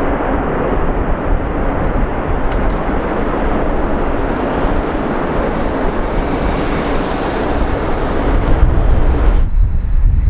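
Airbus A340 jet engines running loud as the airliner comes in to land, with gusty wind buffeting the microphone. About nine seconds in, the higher part of the jet noise drops away suddenly, leaving a low wind rumble.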